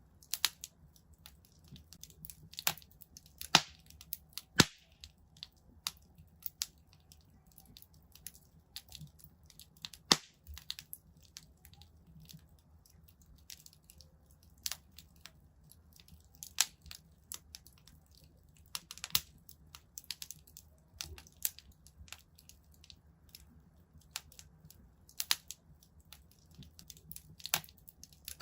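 Wood fire burning in a fireplace, crackling with irregular sharp snaps and pops, a few much louder than the rest, over a faint low rumble of the flames.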